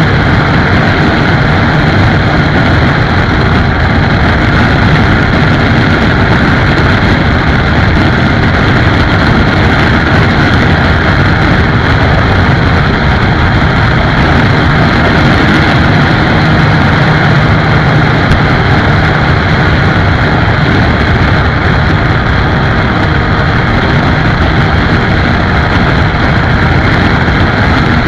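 Motorcycle riding at speed: a steady engine drone under loud, even wind and road noise that does not let up.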